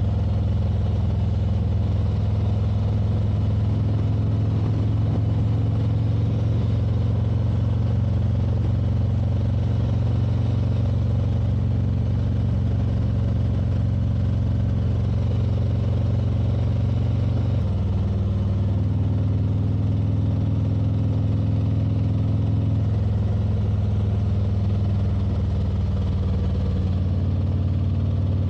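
Motorcycle engine running steadily at road speed, its pitch shifting a few times in the second half as the throttle or gear changes.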